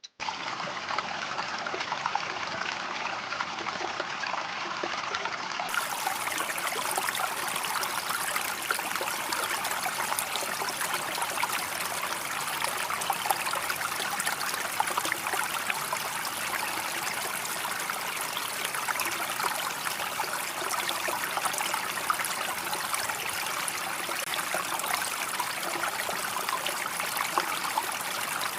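Water pouring and splashing in a steady, continuous stream, starting abruptly.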